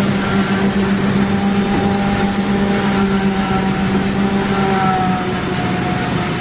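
Silage harvester running with a steady, even engine hum.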